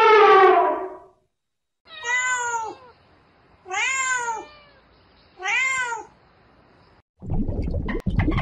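A domestic cat meowing three times, each meow under a second and rising then falling in pitch. Before the meows, a long call held on one slightly falling pitch, over elephant footage, fades out about a second in. Near the end a noisy, crackling sound with a sharp click begins.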